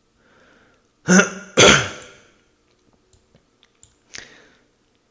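A man clearing his throat in two loud, quick rasps about a second in, with a smaller one near the end, and a few faint clicks in between.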